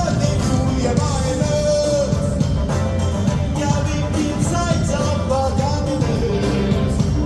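Live rock band playing with a sung melody over drums and bass, a concert recording.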